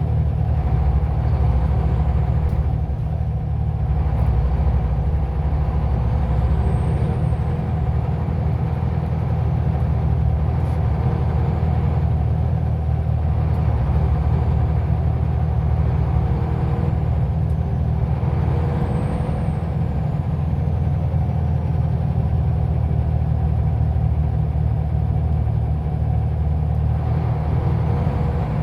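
Scania OmniLink city bus's diesel engine running steadily as the bus drives. A faint high whine rises and falls several times.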